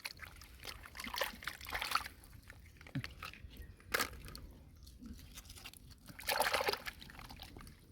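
Pond water sloshing and splashing in irregular strokes, with a few sharp clicks and a louder splash about six and a half seconds in.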